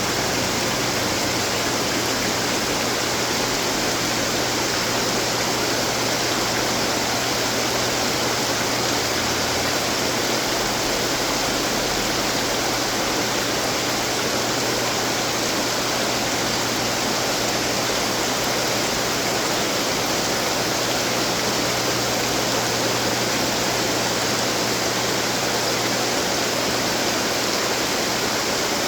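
Running water from garden fountains, splashing and falling steadily with no change, over a steady low hum.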